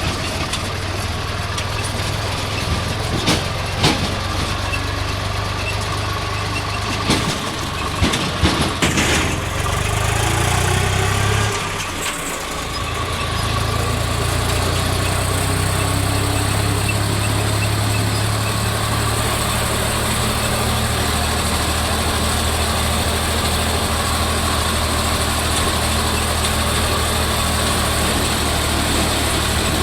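Swaraj tractor's diesel engine running steadily, with a few sharp knocks in the first nine seconds. About twelve seconds in the engine note briefly dips, then settles into a steadier, slightly louder run.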